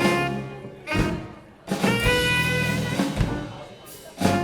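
Live jazz band playing: drum kit hits punctuating sustained pitched chords.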